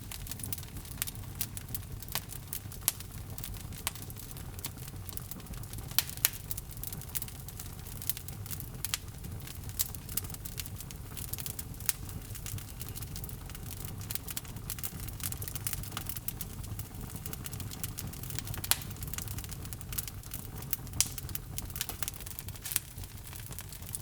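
Logs burning in a fireplace: a steady low rush of flame under frequent sharp crackles and pops. A few louder snaps come about six seconds in and again near nineteen and twenty-one seconds.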